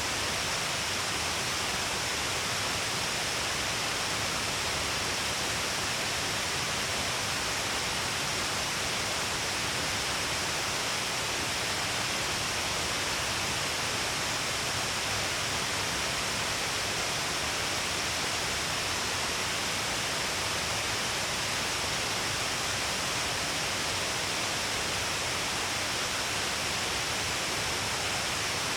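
Shiraito Falls, water pouring down a long cliff face in many streams: a steady, even rush of falling water that does not change.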